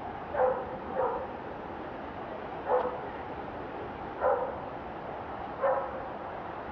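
A dog barking: five short single barks at uneven gaps of about one to two seconds, over a steady background noise.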